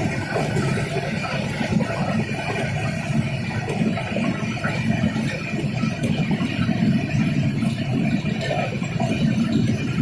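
Passenger train running at speed, heard from inside the coach: a steady low rumble of wheels on the track with rattling from the coach.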